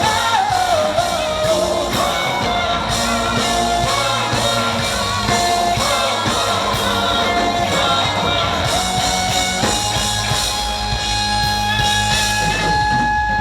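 A live rock band playing with a sung vocal melody over the instruments. From about ten seconds in, long notes are held.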